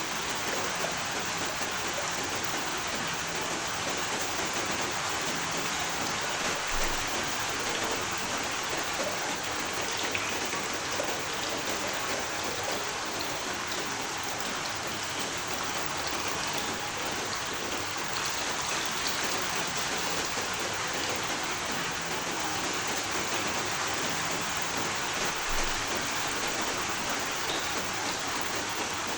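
Steady rainfall, a constant hiss of drops landing on surfaces.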